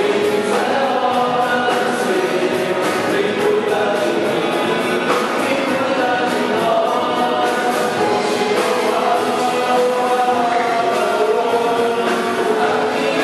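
Music: a choir singing a song in a gospel style, with many voices holding long sung notes.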